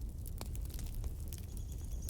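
Wood fire in a fireplace crackling: irregular sharp pops and snaps over a steady low rumble of the flames, with a faint thin high whistle coming in about one and a half seconds in.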